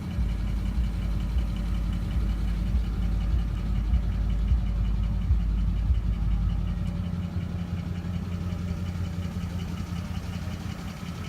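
Vehicle engine idling steadily, with a deep rumble underneath that eases a little after halfway.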